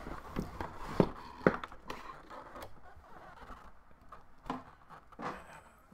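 Product packaging being handled: several sharp taps and knocks, the two loudest about a second in and half a second later, with soft scraping and rustling between them that dies down toward the end.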